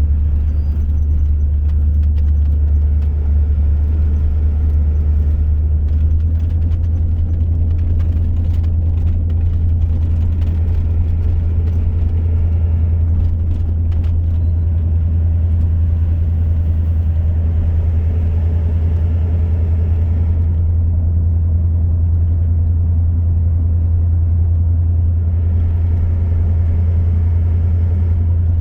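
A car driving, with its engine and road noise making a steady low drone. Faint scattered ticks come through in the middle.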